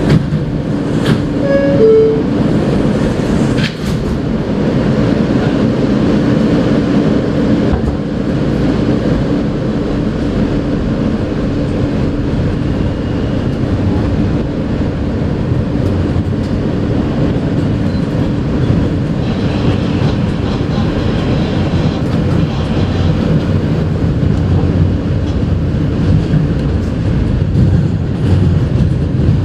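NYC Subway R160A car's two-note descending door chime right at the start, a knock of the doors shutting at about four seconds, then the train pulling out and running along the track with a steady rumble of motors and wheels.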